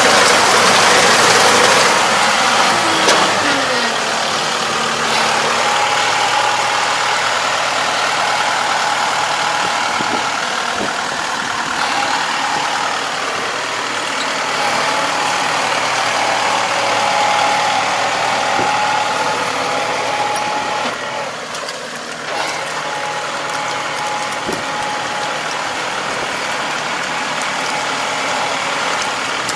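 Engine of a farm machine running steadily, with a short falling pitch about three seconds in.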